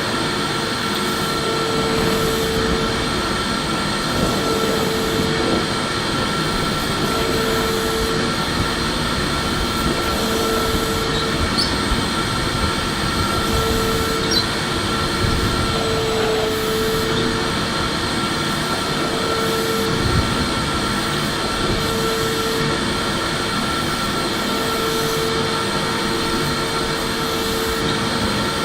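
Electric vacuum cleaner running steadily: a constant rush of air with a steady whine over it, and a lower hum that comes and goes every second or two.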